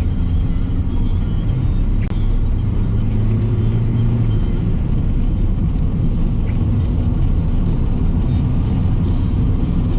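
Steady road and engine rumble of a car heard from inside the cabin while driving, with music from the car radio playing underneath.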